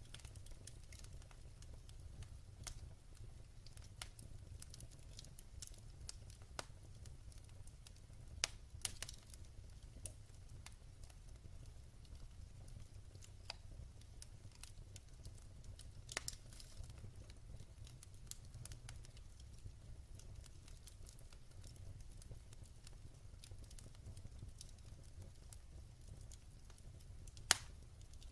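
Wood fire crackling: irregular sharp pops and snaps scattered over a low, steady rumble, with one louder pop near the end.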